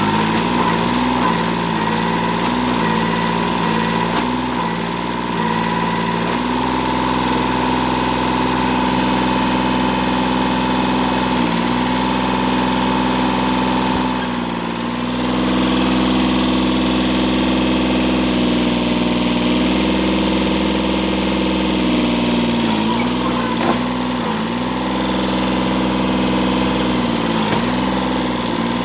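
Kubota tractor's diesel engine running steadily. Its pitch dips briefly and recovers several times, with two short knocks a little past the middle.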